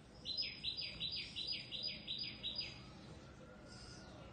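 A bird calling: a run of about ten quick chirps, each falling in pitch, about four a second, stopping after about two and a half seconds.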